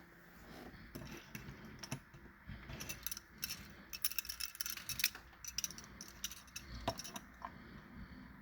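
Faint, irregular clicking and light rattling from a small 1/64-scale diecast model car being handled and turned over in the hands, thickest in the middle stretch.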